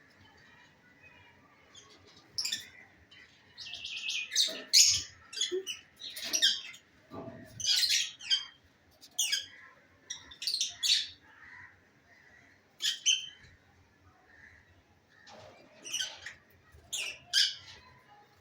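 Lovebirds calling: a string of short, shrill chirps and squawks, some in quick pairs, with a buzzy, rattling call about four seconds in.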